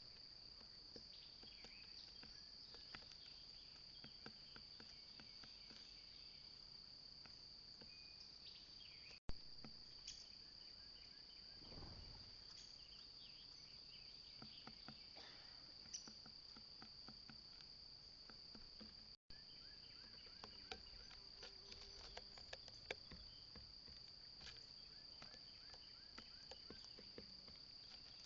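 Faint, steady high-pitched trill of insects, with scattered faint clicks and short chirps over it.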